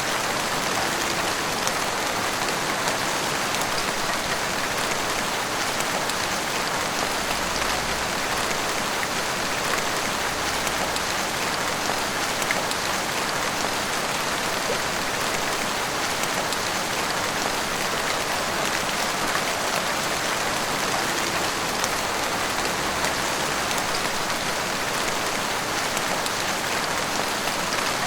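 Heavy rain falling steadily, a dense even hiss with fine patter of drops striking hard surfaces.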